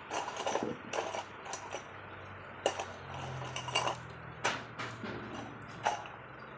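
Metal tools and engine parts clinking and knocking against each other as they are handled: about eight sharp, irregular clinks, with a faint low hum through the middle.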